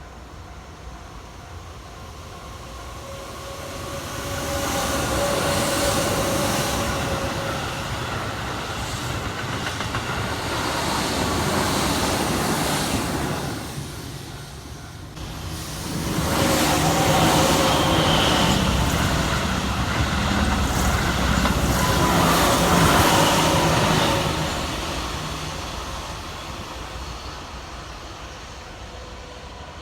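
Keihan electric trains passing on the line: one goes by from about four seconds in, and after a short lull a second, louder pass follows, fading away near the end.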